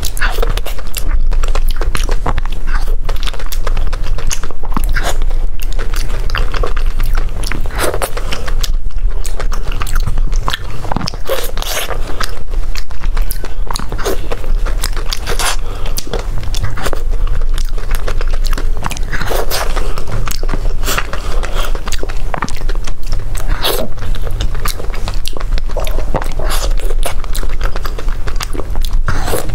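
Close-miked eating: wet, sticky chewing and biting of soft glazed orange dough cakes, with many small mouth clicks and smacks over a steady low hum.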